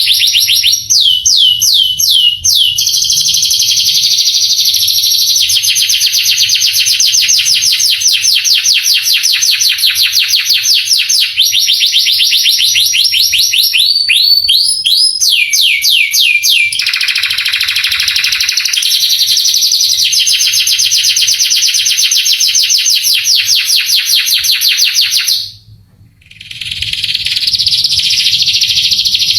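Male domestic canary singing a long, continuous song of fast trills of repeated notes and runs of downward-sliding whistles, with a lower buzzing stretch in the middle and a short break near the end.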